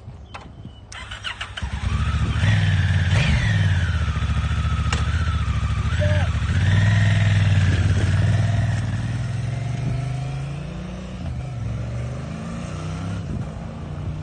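2018 Honda Africa Twin's 1000cc parallel-twin engine starting about a second in, revving up and down, then gradually fading away.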